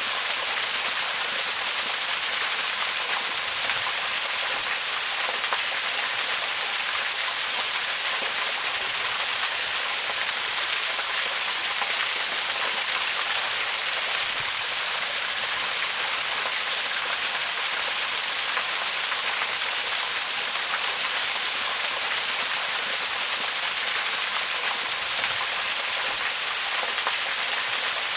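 Waterfall rushing steadily, an even hiss-like roar weighted toward the high end with no change in level.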